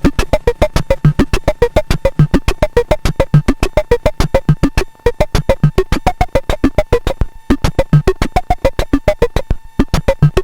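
Electronic drum-synth loop from a Kastle Drum run through a Korg NTS-3 with looper, decimator and reverb: a fast, even clicking pattern of about eight hits a second, with pitched blips and low thuds over a steady high tone. It briefly cuts out about halfway through and twice more near the end.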